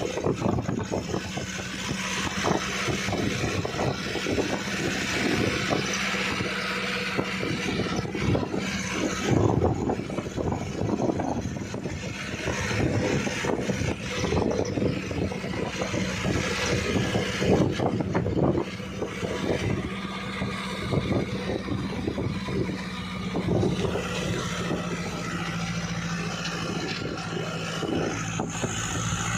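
Vehicle on the move, heard from on board: a steady engine hum under rough road and wind noise.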